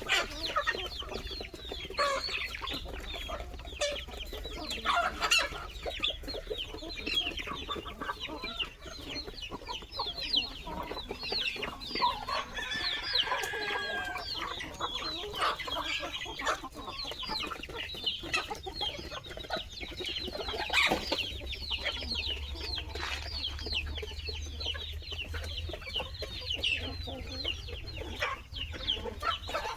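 A large flock of chickens clucking and calling together in a dense, continuous chorus of overlapping short calls. A low steady hum runs underneath and grows louder about two-thirds of the way through.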